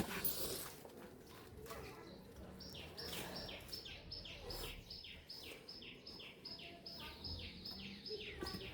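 A bird calling a fast, even series of short falling chirps, about three a second, starting a couple of seconds in and stopping near the end. Faint rustling comes before it.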